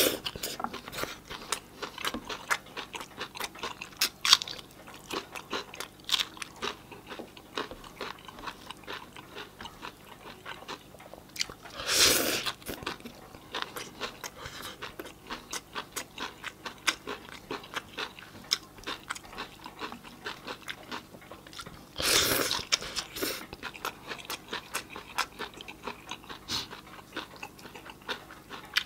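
Close-miked eating sounds: crunching and chewing of raw red cabbage salad and roast chicken eaten by hand, with many quick wet mouth clicks. Two longer, louder noisy sounds come about 12 and 22 seconds in.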